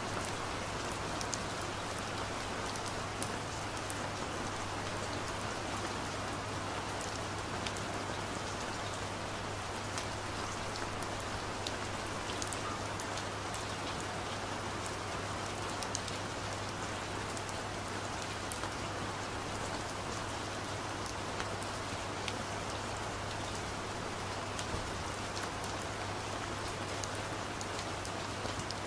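Steady rain falling, an even hiss of rain with many separate drops ticking through it, over a low steady hum.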